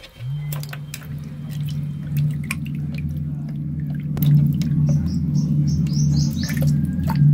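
Underwater sound: scattered clicks and crackles in the water, with a low steady hum that sets in just after the start and holds. A few quick high chirps come near the end.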